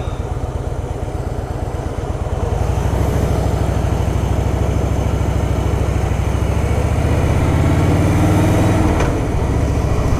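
Harley-Davidson Softail Fat Boy's air-cooled V-twin engine running under way, heard close from the bike. About two and a half seconds in it grows louder as the throttle opens, and its note climbs slowly before dipping briefly near the end as the revs fall, then it carries on steadily.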